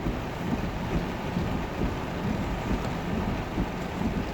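Heavy rain pouring onto a moving car, a steady rushing noise with a low rumble underneath.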